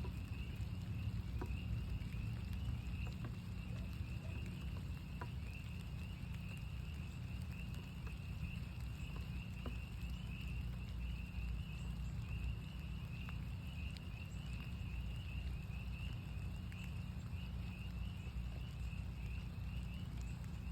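A chorus of northern spring peepers: many high peeps overlapping into a steady shrill band. Rain drips in scattered light ticks over a steady low rumble.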